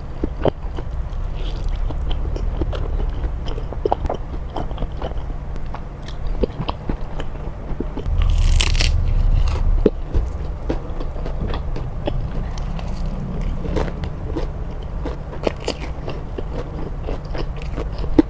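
Close-up eating sounds of saucy fried instant noodles: wet chewing and biting with many small clicks of the mouth. About halfway through there is one louder, noisier burst.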